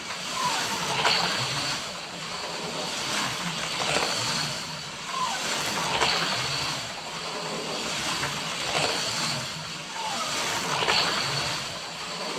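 HO-scale slot car running fast laps on a plastic track: the small electric motor whines and the pickup shoes and tires clatter along the slot. The sound swells and fades as the car passes, repeating about every four and a half to five seconds.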